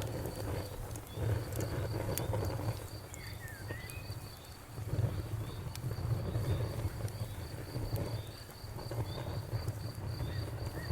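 Fire crackling, with scattered sharp pops over a low uneven rumble of the flames. A cricket chirps steadily behind it at about four chirps a second.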